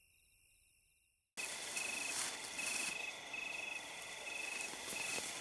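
Night insects calling: a faint steady high buzzing, then, after an abrupt cut a little over a second in, a louder hissy chorus. Over the chorus a cricket trills in short bursts, repeating every second or so.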